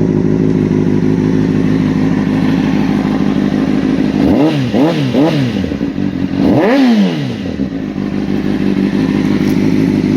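2004 Honda CBR600RR's 599 cc inline-four engine idling steadily. About four seconds in, the throttle is blipped three times in quick succession, then given one bigger rev, and the engine settles back to idle.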